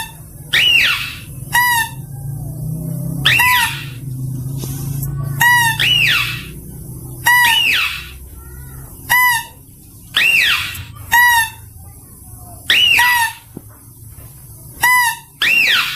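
Mouse-deer (kancil) calls played as a lure: a shrill squeal that rises and falls, followed by a short rattling trill, repeated over and over about every one to two seconds.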